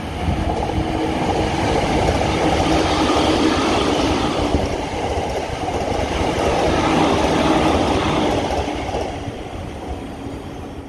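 Yokosuka Line electric train passing at about 113 km/h: a rush of wheel-on-rail noise that builds quickly, holds with a steady hum under it, and fades near the end as the train moves away.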